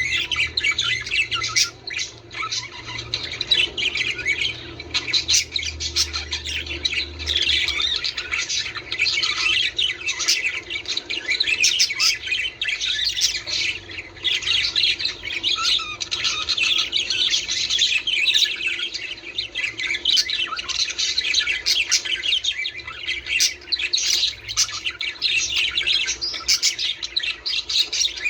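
Budgerigars chattering with dense, overlapping chirps, warbles and squawks, non-stop.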